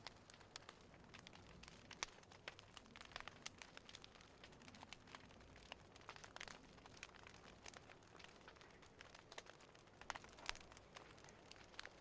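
Faint crackling of a wood fire: irregular small pops and snaps throughout, with a few sharper ones about two seconds in and again near ten seconds.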